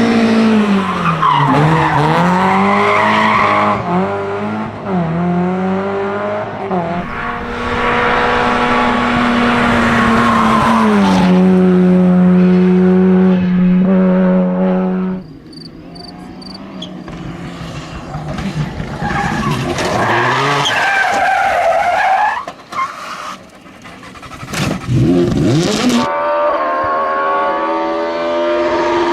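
Rally cars at full attack, engines revving hard and dropping back through gear changes, with tyre and skid noise. The sound changes abruptly about halfway through and again near the end. Around three-quarters of the way in, a car sweeps past with falling pitch.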